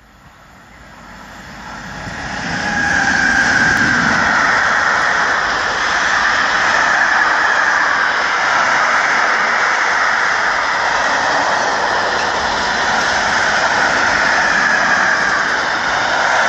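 Freight train passing close by: the noise swells over the first three seconds as the front of the train approaches, then holds as steady, loud wheel-on-rail rolling noise from a long rake of tank wagons and freight cars.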